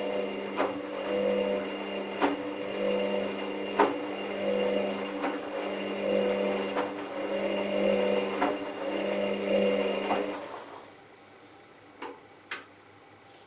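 Hoover VisionTech washing machine's drum motor turning the drum, a pulsing hum with a light click about every second and a half, which stops about ten seconds in, followed by two short clicks.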